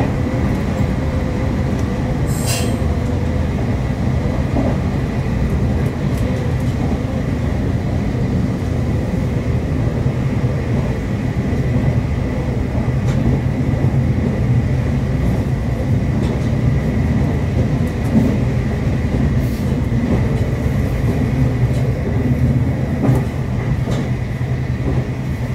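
Onboard running sound of a Meitetsu Series 1200 limited-express electric train at speed: a steady rumble of wheels and running gear, with a thin steady whine above it. A brief high squeak comes about two and a half seconds in.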